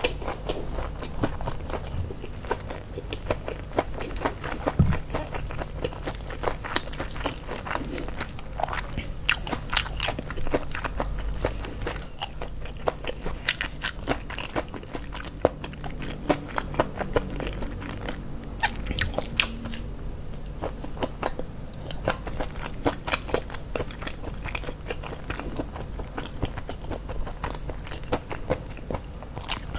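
A person chewing and biting crispy fried chicken (ayam geprek) with rice, the crisp batter giving many short, sharp crunches.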